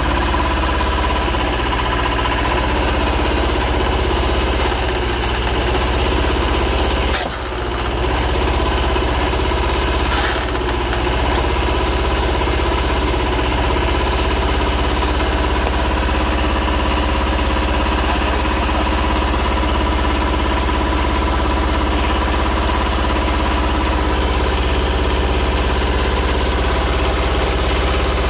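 A mini tractor's engine running steadily, the power source for a homemade hydraulic splitting axe. A sharp knock about seven seconds in, with a fainter one about three seconds later.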